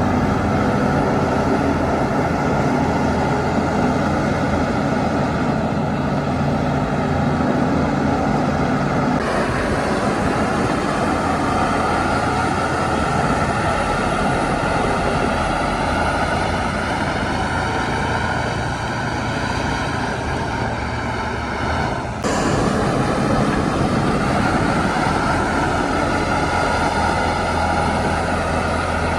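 Shantui DH17 bulldozer's diesel engine running steadily under load while working fill. Its tone shifts about nine seconds in, and there is a sudden break in the sound about two-thirds of the way through.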